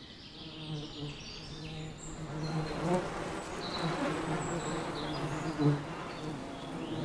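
Buzzing of a dense mass of European dark honey bees crowded inside their nest: a steady low hum that grows louder after about two seconds, with brief swells. The colony is overcrowded, some 50,000 workers in a cramped hive.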